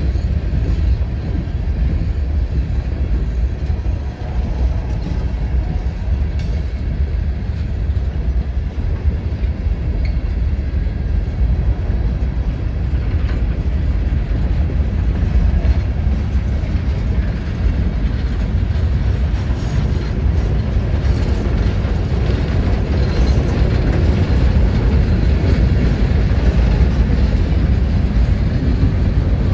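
Freight train rolling past, a steady low rumble of cars on the rails with some clickety-clack of wheels over joints, building slightly louder toward the end.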